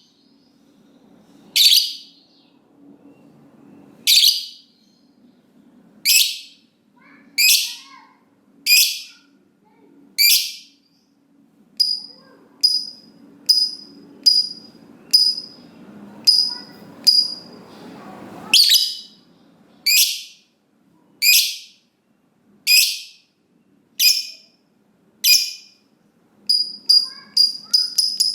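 Lovebird giving sharp, high-pitched calls, one about every second and a half, with thinner short chirps between them in the middle stretch. Near the end the calls quicken into a fast run of short chirps.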